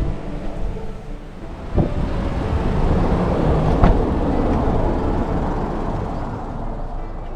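Small car driving in stormy weather: a steady rush of road and wind noise that swells in the middle, with two sharp knocks about two and four seconds in.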